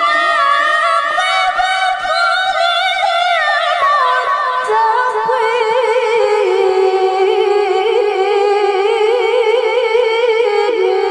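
A woman reciting the Quran (tilawah) in a high, clear voice, drawing out one long melismatic phrase with vibrato, unaccompanied. The held note steps down in pitch about four seconds in and again about six seconds in.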